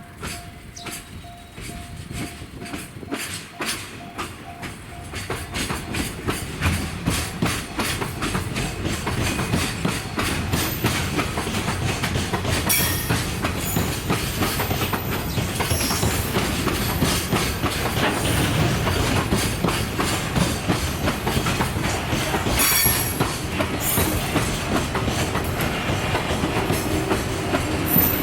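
EF81-hauled freight train rolling through, its wheels clattering over rail joints in a rapid run of clicks that grows louder over the first several seconds. A few brief high-pitched wheel squeals come through.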